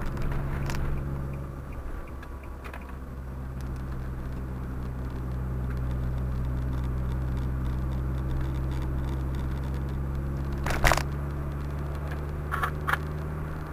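Car engine and road noise heard from inside the moving car's cabin, a steady low drone that eases briefly about two seconds in. A single sharp knock comes near the end.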